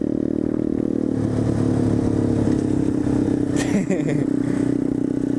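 Dirt bike engine running at a fairly steady speed, with a brief shout from a rider a little over halfway through.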